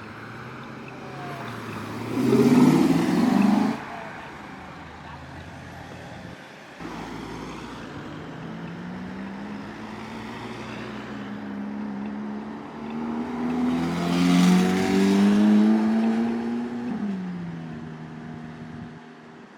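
Sports car engines accelerating hard as they drive off. One car gives a loud, short burst of throttle about two seconds in. Later another engine revs up with a climbing pitch, is loudest about three-quarters of the way through, then drops off.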